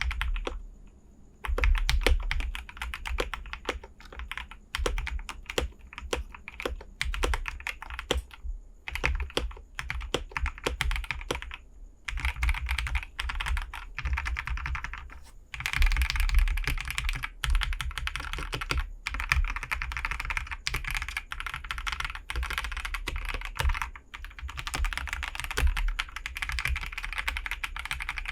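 Typing on a mechanical keyboard with Glorious Lynx linear switches, lubed with Krytox 205g0 and fitted with TX films, under GPBT keycaps. Keystrokes click in quick continuous runs, with a short pause about a second in.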